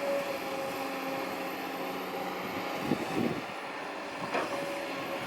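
Kobelco SK200-8 Super XM excavator running, its engine and hydraulics giving a steady whine, with a couple of short louder sounds about three and four seconds in.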